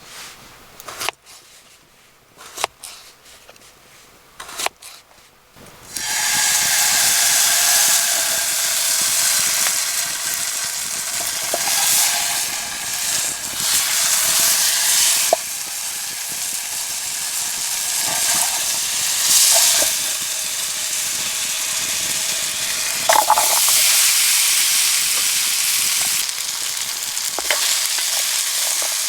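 A few light knocks and clicks, then about six seconds in food goes into a hot pan and sizzles loudly and steadily, with occasional clicks of a utensil stirring.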